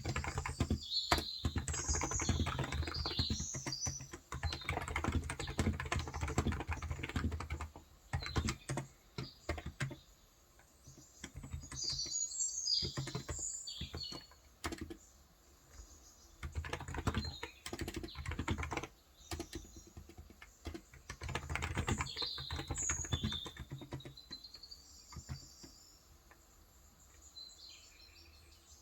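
Typing on a Cox Endeavor electro-capacitive (35 g) tenkeyless keyboard: fast runs of keystrokes in bursts of a few seconds, broken by short pauses. Small birds chirp in the background a few times, high-pitched.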